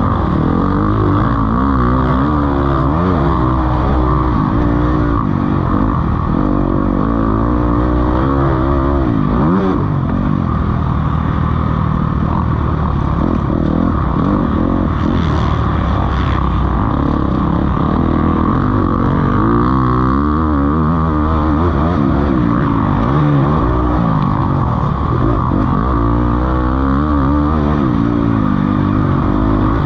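Several motocross bikes racing, their engines revving up and down, overlapping and rising and falling in pitch.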